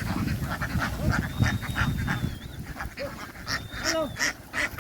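A flock of domestic ducks quacking, many short calls overlapping, with a low rumble underneath.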